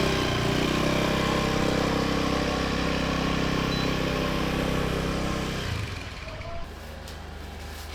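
Motorbike engine running steadily as it rides off, then fading away about three quarters of the way through.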